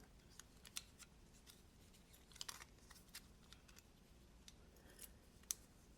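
Near silence with a few faint, scattered clicks of small metal folding-knife parts being handled and fitted together. The sharpest click comes about five and a half seconds in.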